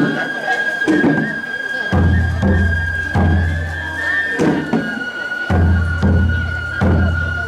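Japanese festival music (matsuri-bayashi): a bamboo flute holds one long high note, dipping slightly near the end, over taiko drum strikes about once a second, the heavier strikes booming on after each hit.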